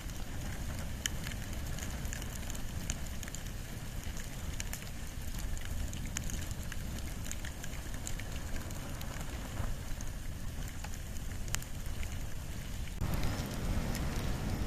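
Wood and bamboo fire burning, with scattered sharp crackles and pops over a steady low rumble. About 13 seconds in the sound abruptly fills out and gets a little louder.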